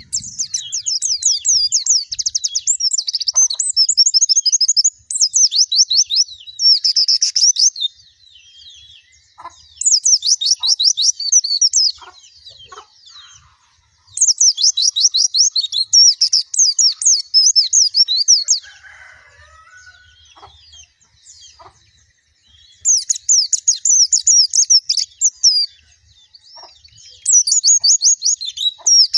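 White-eye (pleci) singing: bouts of rapid, high twittering trills a few seconds long, five in all, with short gaps between them.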